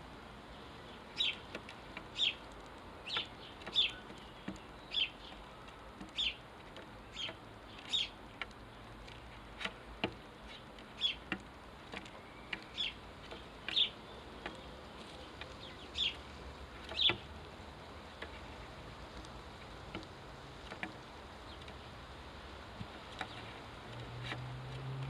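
Sparrow chirping: single short, high cheeps repeated about once a second, thinning out after about two-thirds of the way through. A low rumble rises near the end.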